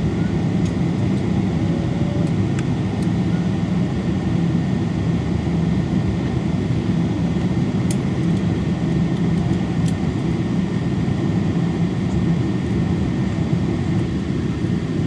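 Steady, even engine rumble heard inside the cabin of a Boeing 777-224 airliner, with a few faint clicks.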